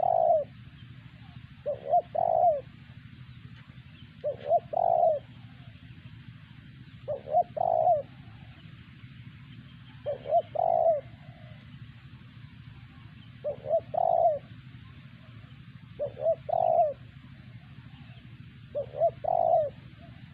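Spotted dove (terkukur) cooing: a phrase of two short notes and a longer note, repeated every two to three seconds, over a steady low hum.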